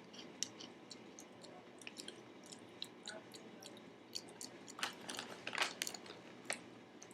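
Shrimp chips being chewed: scattered crisp crunches, with a louder run of crunching about five seconds in.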